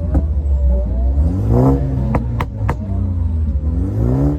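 A car engine running with a deep rumble and revving up twice, its pitch rising each time. There are a few sharp cracks between the two revs.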